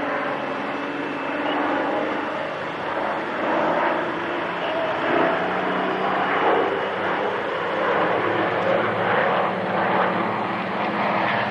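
Propeller aircraft's piston engine droning steadily as it flies past, its loudness swelling and easing.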